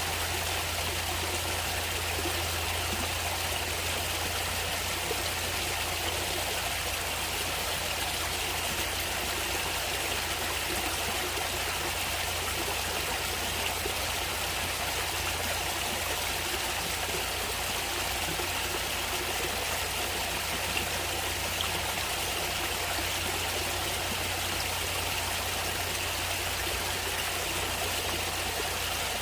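Stream water flowing and trickling, a steady even rush that does not change.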